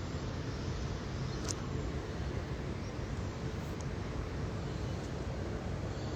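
Steady background noise, a low rumble with a hiss over it, and one faint click about one and a half seconds in.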